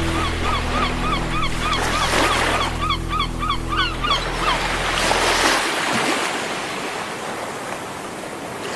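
Sea waves washing steadily, with sustained low droning notes that fade out about halfway through, and a quick run of short repeated chirps in the first half.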